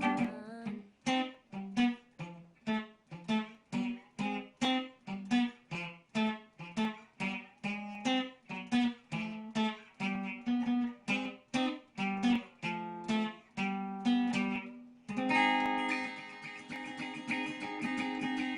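Instrumental ending of a song on a plucked string instrument: evenly picked chords, about two a second, then a final strummed chord about fifteen seconds in, left to ring.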